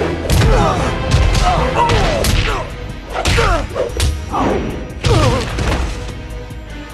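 Cartoon fight-scene soundtrack: a string of hits and crashes, roughly one a second, with swooping sound effects that glide up and down in pitch, over background music.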